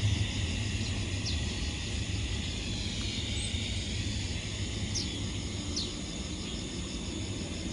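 Outdoor ambience: insects trilling steadily under a low, even rumble, with a few short bird chirps.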